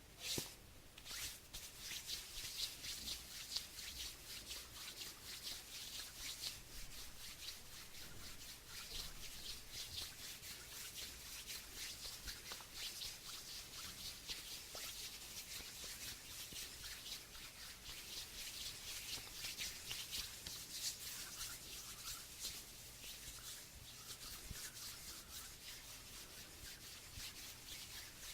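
Palms rubbing together close to the microphone: a continuous dry swishing in quick back-and-forth strokes, starting after a short pause.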